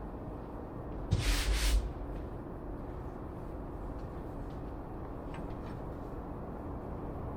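A brief scraping rustle, a little under a second long, about a second in, over a steady low workshop hum.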